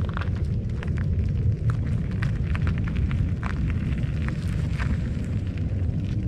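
Mountain bike rolling over a rough, rocky dirt trail: a steady low rumble with many scattered clicks and rattles from the tyres on loose stones and the bike's parts.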